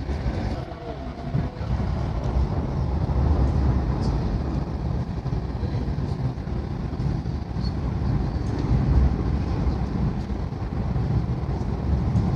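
Passenger train running over a steel truss bridge, heard from inside the carriage: a steady low rumble that grows louder about a second and a half in.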